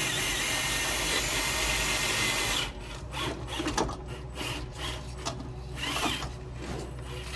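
Traxxas TRX-4 RC crawler's electric motor and gear drivetrain whirring hard under load as it tries to climb rocks, stopping suddenly about two and a half seconds in. Scattered clicks and knocks of the truck on the rocks follow.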